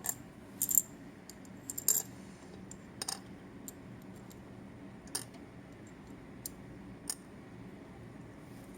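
Small plastic toy pieces clicking and clinking as they are set down and moved: Sylvanian Families miniature dishes and play food. The clicks come scattered and irregular, loudest in the first two seconds.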